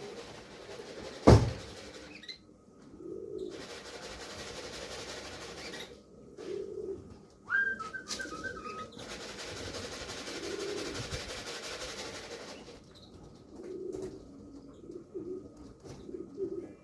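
Racing pigeons cooing in short low phrases every few seconds, with a sharp knock about a second in as the loudest sound. A brief high chirping call comes midway, and stretches of steady rushing noise lie between the coos.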